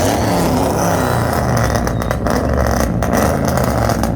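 Loud car engines and exhausts revving and accelerating, a deep rumble under engine notes that rise and fall.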